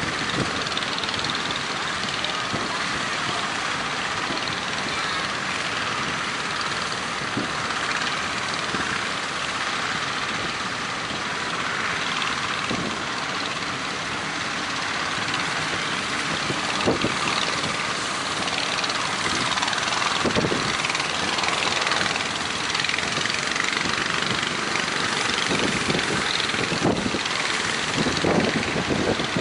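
Fishing-boat engines running steadily under a constant hiss, with a few faint low knocks scattered through.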